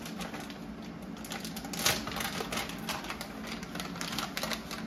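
Shredded cheese being sprinkled onto a tortilla on a plate: a steady run of light, irregular ticks and patters.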